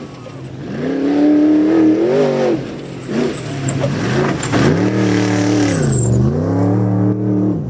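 Off-road race truck engine revving hard, its pitch climbing and dropping several times as the throttle is opened and lifted. It climbs about a second in, dips near two and a half seconds, then rises and falls again in the second half.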